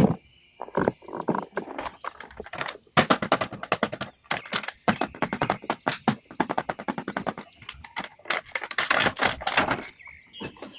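Rapid, irregular clicking and clattering of hard plastic: action-figure toys being handled and knocked together, in quick runs with short pauses between.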